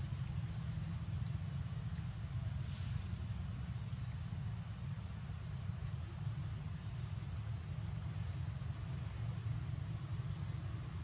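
Steady high-pitched insect drone over a constant low rumble, with a few faint clicks.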